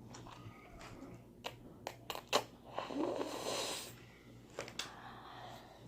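Close-up eating sounds from a noodle mukbang: a few sharp mouth clicks and smacks, and about three seconds in one longer breathy slurp or intake of air.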